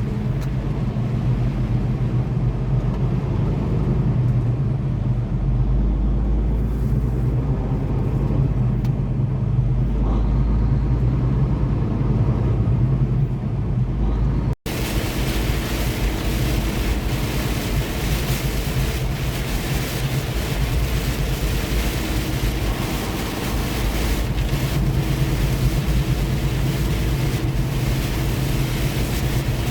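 Semi truck's diesel engine running steadily at road speed, with tyre and rain noise over it. The sound drops out for an instant about halfway through, and afterwards the hiss of rain and road spray is louder.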